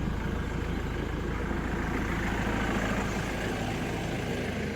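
Ford Mondeo ST TDCi's diesel engine idling steadily.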